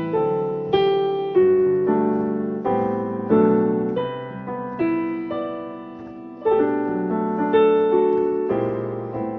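Background piano music: soft chords struck and left to fade, a new chord about every second.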